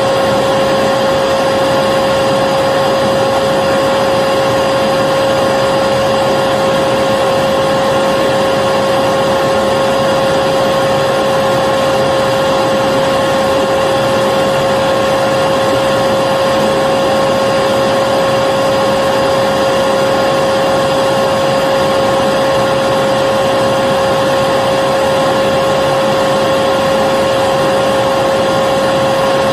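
Vacuum cleaner motor running steadily, a constant whine over an even rushing noise, with no change in pitch or level.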